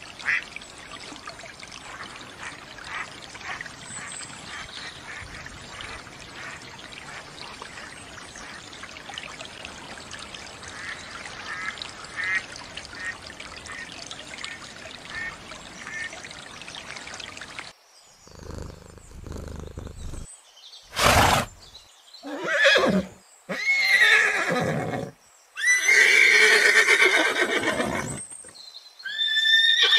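Ducks quacking in short calls over a steady rush of water. After a cut about two thirds of the way through, a horse neighs several times in loud whinnies with a wavering, gliding pitch.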